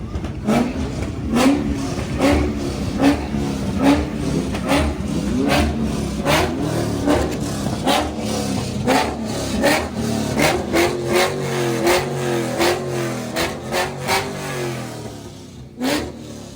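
Car engine revved over and over in short, quick blips, more than one a second, with a sharp pop at each blip. The revving eases off briefly near the end, then picks up again.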